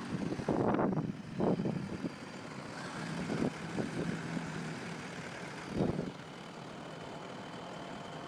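Farm tractor engines running in a muddy field during a chained tow recovery, with several short louder bursts in the first six seconds before the sound settles to a steady run.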